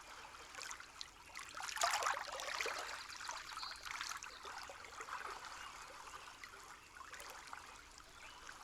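A small stream trickling and gurgling, slightly louder about two seconds in.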